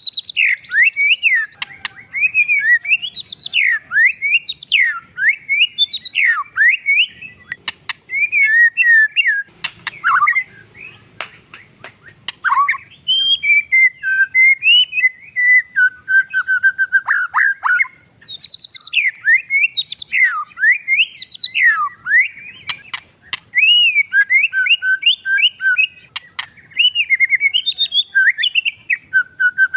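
An Oriental magpie-robin singing in full song: a loud, almost unbroken run of quick, swooping whistled phrases that change pitch constantly, broken by a few sharp clicks.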